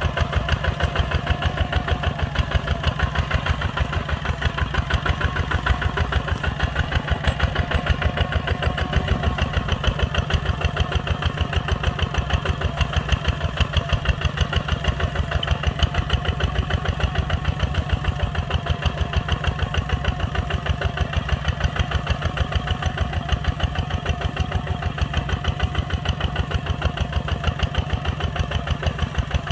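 Kubota ZT 140's single-cylinder diesel engine running steadily with an even, unbroken chugging beat.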